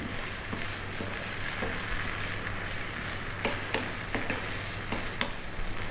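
Chana (yellow split peas) frying in oil with tomatoes and onions in a pan: a steady sizzle, with light scrapes and clicks as a wooden spatula stirs them.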